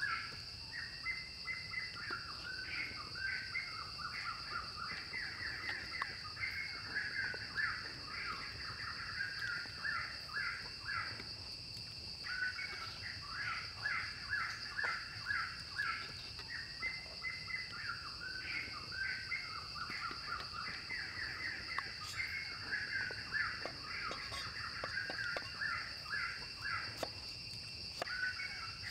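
Forest birds calling in long runs of quick, repeated chirping calls that pause briefly twice, over a steady high-pitched drone. A few faint knocks come near the end.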